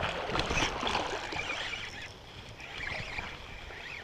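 Creek water splashing and sloshing, loudest in the first second or so, then settling to a softer burble.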